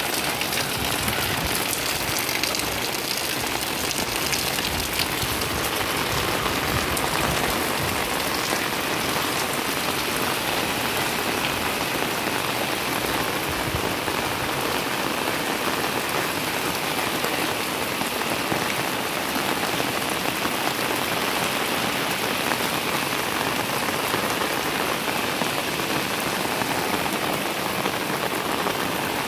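Heavy rain pouring onto standing floodwater, a steady, even hiss of drops striking the water.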